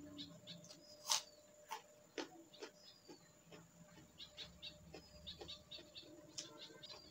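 Close-miked eating sounds of a person eating rice and chicken curry by hand: wet chewing and lip-smacking made up of many short clicks, the loudest about a second in.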